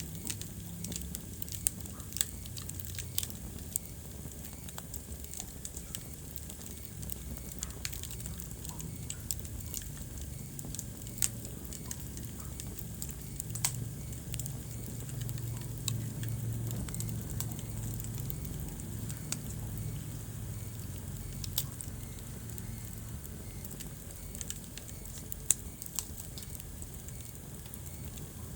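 Wood fire crackling in a fireplace: scattered sharp pops and snaps at irregular intervals over a low, steady rumble of the flames.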